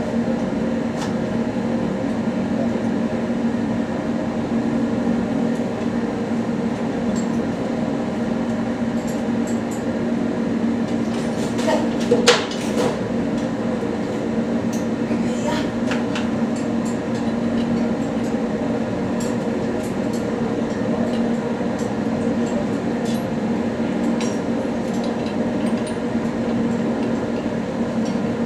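A workshop machine running steadily with a low hum, with a few sharp knocks about twelve seconds in and again around sixteen.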